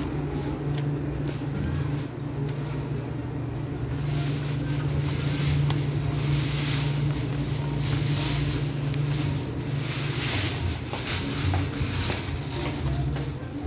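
A steady low mechanical hum, with a rustling hiss coming in about four seconds in and running on until near the end.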